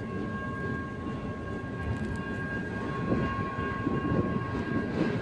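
Freight cars of a mixed freight train rolling through a road grade crossing: a steady low rumble of wheels on rail, swelling a little after about three seconds. Two steady high tones hold alongside, and the lower one drops out near the end.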